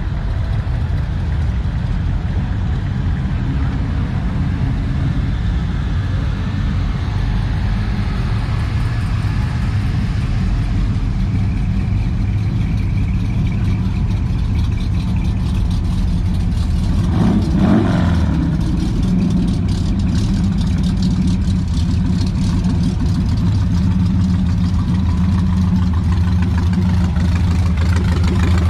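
A car engine idling steadily, with a brief swell in the engine note about seventeen seconds in.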